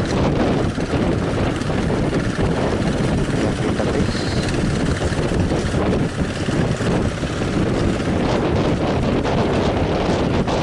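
Strong coastal wind buffeting the microphone: loud, dense, gusting rumble that covers the sounds of the sea.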